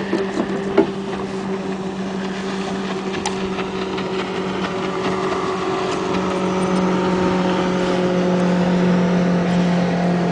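Motorboat engine running with a steady hum that grows slightly louder through the second half. A single sharp knock about a second in.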